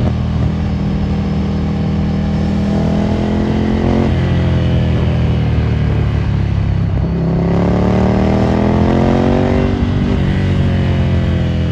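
Ducati Monster 797's air-cooled L-twin through a Termignoni exhaust, ridden hard: the revs climb, drop away about four seconds in and sink, then climb again from about seven and a half seconds before dropping off near ten seconds.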